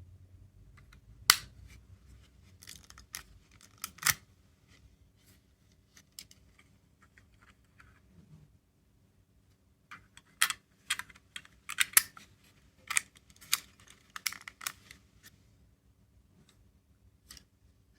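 Scattered sharp clicks and taps of small plastic capsule toys being handled, sparse at first and coming thick and fast for a few seconds past the middle.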